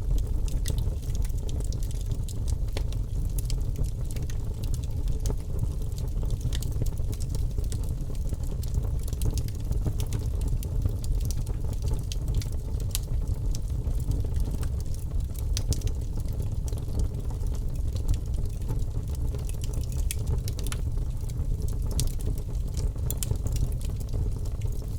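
Wood fire crackling: a steady low rumble of flames with frequent sharp snaps and pops scattered throughout.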